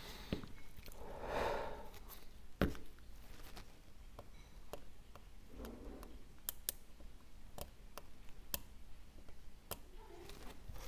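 Small hand tools clicking and tapping against iPhone parts during disassembly, scattered sharp clicks with a brief scrape about a second and a half in and a louder click a little later.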